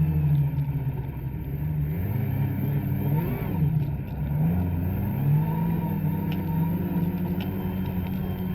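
Two-stroke snowmobile engine running under throttle in deep powder. Its pitch dips and climbs again twice, about a third and two thirds of the way in.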